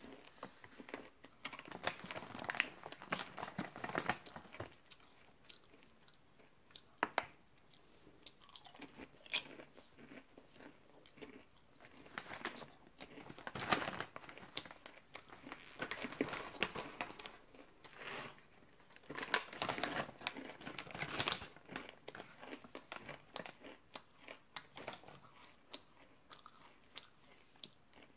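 Crunchy chewing of caramel popcorn with pretzel pieces: crisp crunches and bites coming in clusters, with the foil snack bag crinkling now and then as a hand reaches in.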